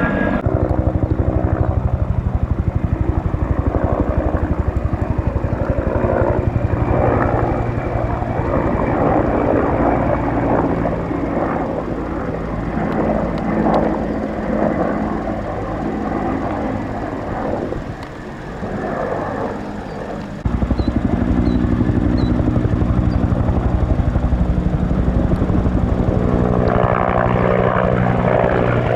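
Helicopter running overhead, with the fast pulsing beat of its rotor blades under a steady engine whine. About two-thirds of the way through, the sound changes abruptly to a steadier, stronger rotor beat.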